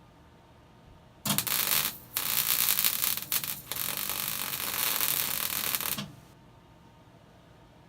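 MIG welder arc crackling in bursts while a nut is plug-welded onto the end of a broken bolt: one short burst about a second in, then a longer run of several seconds with a couple of brief breaks, cutting off suddenly near the six-second mark.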